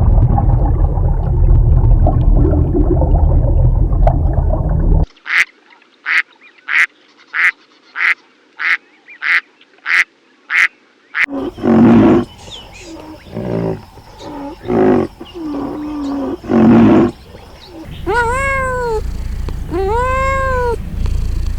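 Steady low rumbling noise for about five seconds, then a duck quacking about ten times in quick, even succession, followed by a few lower, rougher calls. Near the end a cat meows three times, each call rising and falling in pitch.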